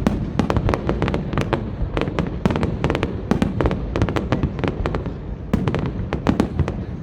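Fireworks display: a dense, irregular stream of sharp bangs and crackles, several a second, over a continuous low rumble of booms.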